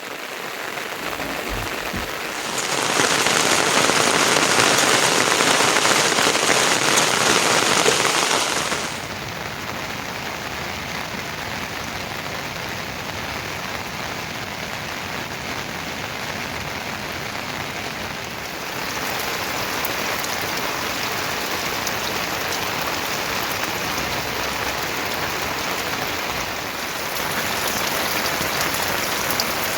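Steady rain falling, with its loudness jumping abruptly up and down a few times: louder from about 3 to 9 seconds in, then quieter, then up again near the end.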